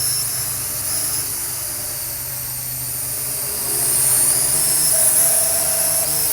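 Parrot AR.Drone 2.0 quadcopter's electric motors and propellers whirring in flight: a high whine over several steady tones, getting louder about four seconds in.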